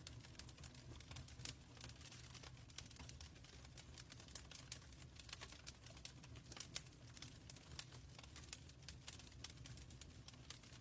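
Wood fire in a fireplace crackling faintly: many irregular sharp pops and snaps over a low steady rumble.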